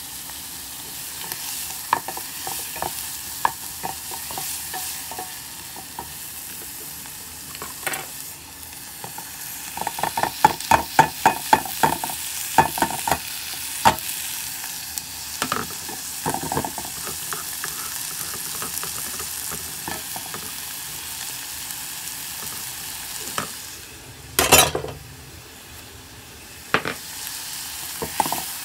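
Diced red onion sizzling in hot oil in a white enamelled pot while a wooden spatula stirs and scrapes, tapping against the pot. There is a fast run of taps about ten seconds in, chopped tomatoes are scraped into the pot, and there is one loud knock near the end.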